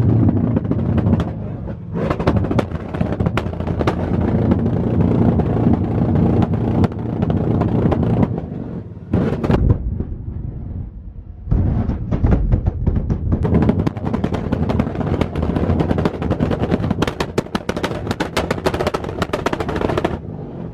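Car engines revving hard with dense, rapid exhaust pops and crackles in two long bursts, easing off briefly in the middle.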